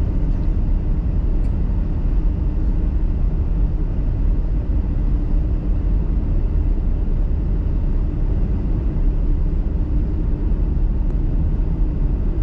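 Car driving on a snowy road: a steady low drone of tyre, road and engine noise that holds even throughout.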